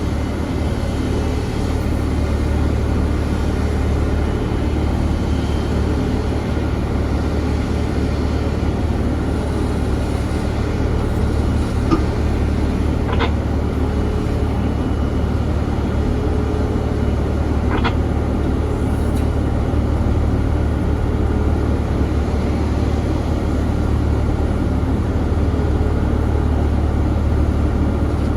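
Steady low rumble of jet aircraft engines across the airport apron, with a few faint clicks about halfway through.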